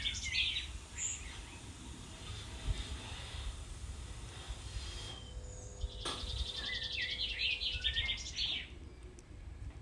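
Wild birds calling outdoors in two spells of quick, repeated high notes, one right at the start and a longer one a little past halfway, over a steady low rumble.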